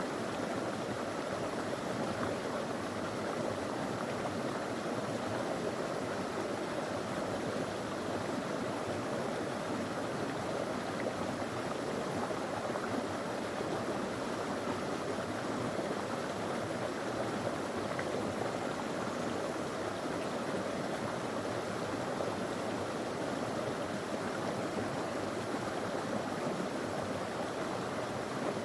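Small stony river flowing steadily, a constant rush of water over rocks.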